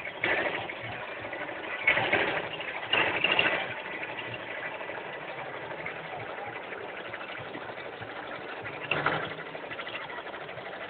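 Pedal-powered scroll saw and drill contraption running with a steady mechanical rattle, with a few brief louder surges along the way.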